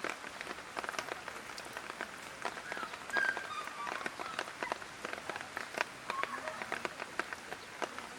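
Light rain falling: a steady hiss with many irregular, sharp drop ticks and splashes close by.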